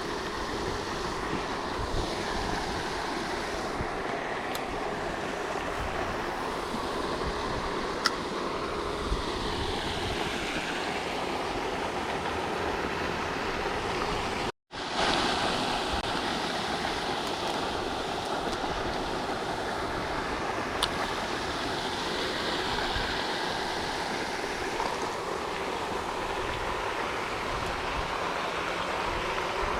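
Steady rushing and splashing of a pond's water fountain, an even wash of water noise with no break apart from a brief dropout about halfway through.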